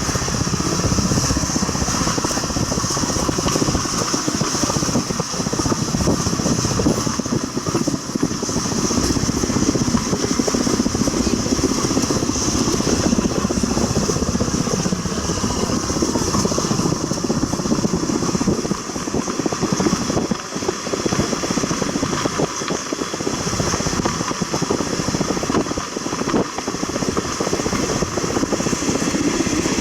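A train running, with a steady rumble and irregular clatter from the wheels and track, plus a steady high hiss.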